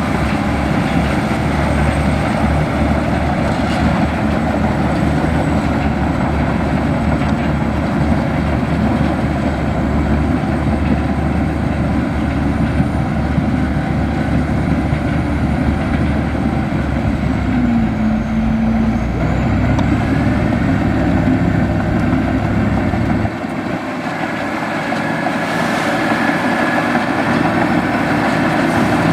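Heavy diesel engine of a Komatsu bulldozer running steadily, working with a deep rumble. Near the end the lowest part of the rumble falls away and the level dips slightly, as the engine note changes.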